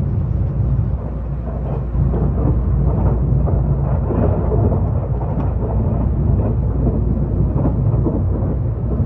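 EMU3000 electric multiple unit passing at speed: a loud, steady low rumble of wheels on rail with scattered clicks and rattles.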